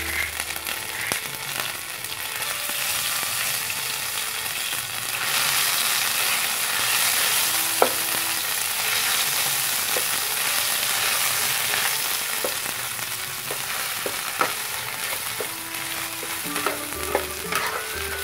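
Ground spice paste of lemongrass, Chinese ginger, garlic, shallot and shrimp paste sizzling in hot oil in a nonstick frying pan, the sizzle growing louder about five seconds in. A metal spatula stirs and spreads it, tapping the pan a few times.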